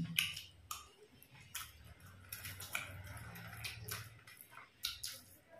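Eating sounds of two people eating rice and chicken curry by hand: irregular chewing and mouth clicks, with small smacks as fingers work the food.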